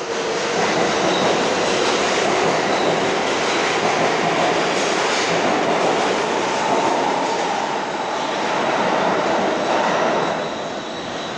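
An NYC Subway L train pulling out of a station platform: a loud steady rumble of wheels on the rails with a motor whine that rises in pitch. The noise eases off about ten seconds in as the train leaves.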